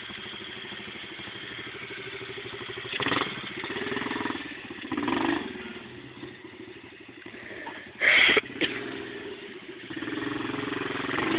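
50cc four-stroke pit bike engine idling, blipped up in short revs about three and five seconds in. A brief loud noise comes about eight seconds in, and then the engine revs up again near the end.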